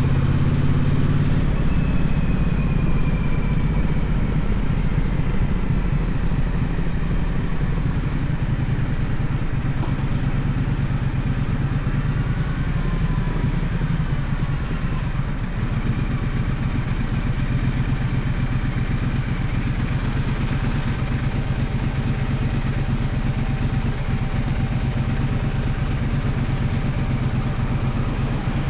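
Gaokin GK1200 motorcycle engine running steadily on the move, under a constant rush of noise; its note drops slightly about a second and a half in, then holds.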